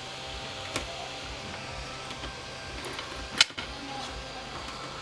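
Handheld electric air blower running steadily, a motor hum under an airy hiss, drying a freshly washed circuit board. Two sharp clicks cut through it, one about a second in and a louder one about three and a half seconds in.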